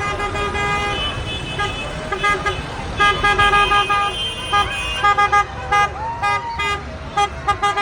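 Tractor horns tooting in many short blasts over the low rumble of passing tractor engines.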